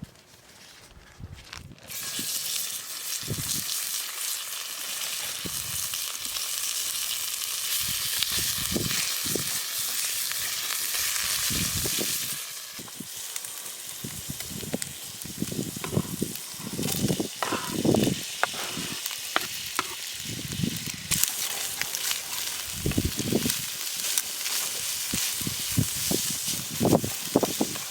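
Food sizzling in a hot pan over a campfire. The sizzle starts suddenly about two seconds in, as the food goes in, and stays strong before easing slightly. In the second half, repeated short knocks and scrapes sound as the food is stirred or turned with a utensil.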